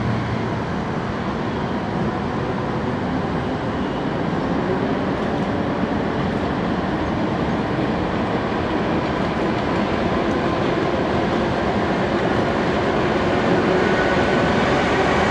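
A suburban electric train (multiple-unit elektrichka) running over a steel truss railway bridge, heard from a distance with the steady noise of heavy road traffic. The rumble grows slowly louder as the train comes across, and a faint whine comes in near the end.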